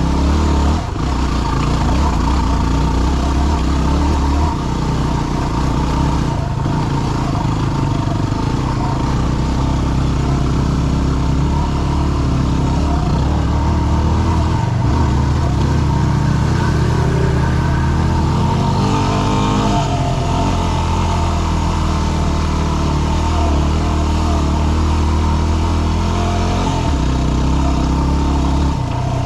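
Yamaha WR250R's single-cylinder engine running steadily under load as the motorcycle climbs a rocky trail, its pitch shifting several times as the throttle opens and eases off.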